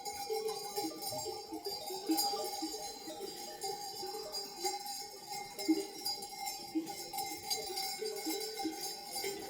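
Many livestock bells on a flock of sheep or goats clanking irregularly, their notes overlapping as the animals move and graze.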